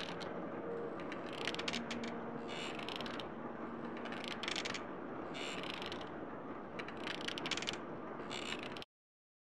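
Credits-soundtrack sound effect: bursts of fast mechanical clicking about once a second over a steady hiss, cutting off abruptly near the end.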